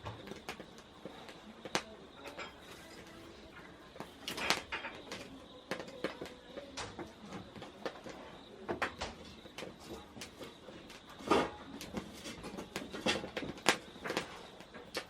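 Wood burning in a Solo Stove Campfire fire pit, crackling and popping at irregular moments, with a few louder pops.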